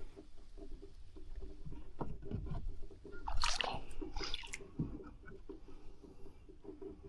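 Water sloshing and splashing, with a louder splash about three and a half seconds in.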